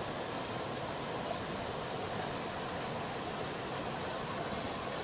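Waterfall water rushing: a steady, even hiss of falling water with no breaks.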